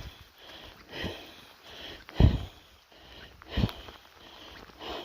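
A person breathing hard close to the microphone while walking, about one loud breath every second and a quarter.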